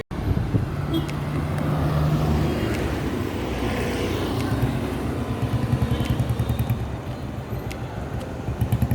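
Road traffic: steady street noise with a motor vehicle's engine running close by, its pitch dropping a little a couple of seconds in.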